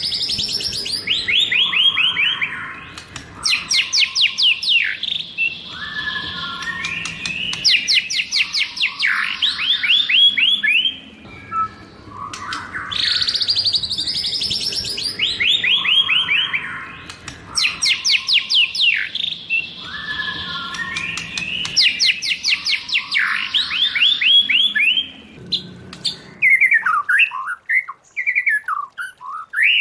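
White-rumped shama singing loud phrases of fast repeated notes and falling whistles. The same sequence of about twelve seconds comes twice, as in a looped training recording, then shorter, lower, varied notes near the end.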